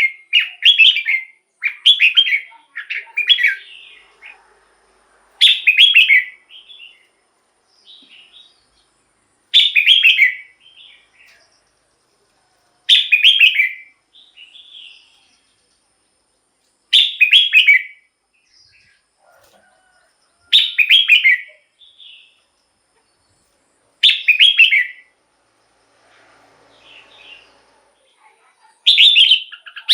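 Red-whiskered bulbul singing: short, loud warbled phrases, several in quick succession at first, then one about every three to four seconds, with softer notes in between.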